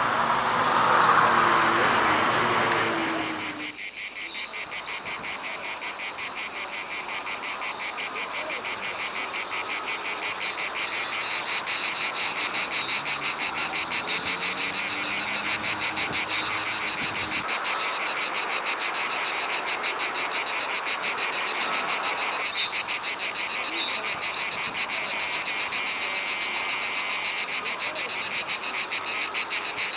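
Chorus of cicadas, a fast, even, high-pitched pulsing buzz that grows slightly louder. In the first few seconds a lower pitched tone falls and then cuts off abruptly.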